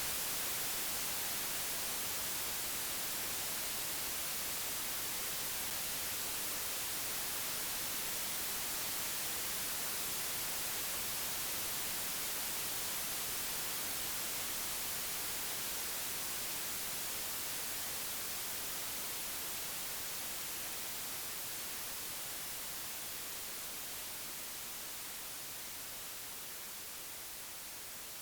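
Computer-generated white noise: a steady, even hiss with no tones or events, brightest in the highs, slowly growing quieter over the second half.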